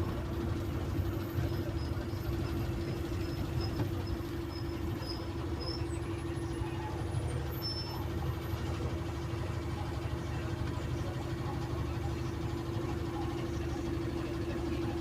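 Cummins diesel engine of a Zhongtong city bus running steadily at an even speed, a low rumble with a steady hum over it.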